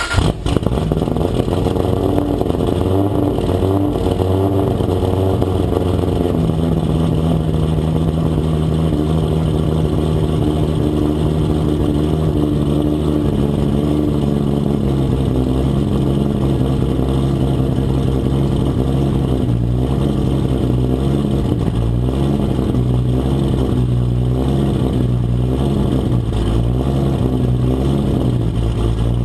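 Toyota Supra MK4's twin-turbo 2JZ-GTE straight-six engine idling steadily, with its pitch holding level and wavering slightly now and then.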